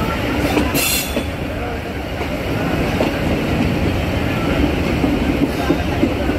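Passenger train coach running along the track, heard from its open window: a steady rumble of steel wheels on rail, with occasional clicks over rail joints.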